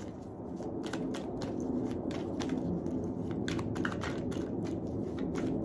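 Tarot cards being shuffled by hand: a run of quick, irregular clicks and flicks as the cards slide against one another.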